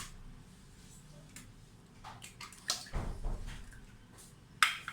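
Kitchen handling sounds as an egg is cracked and dropped into a mixer jar: a sharp click at the start, light taps and clicks, a soft low thud about three seconds in, and a sharper clatter near the end.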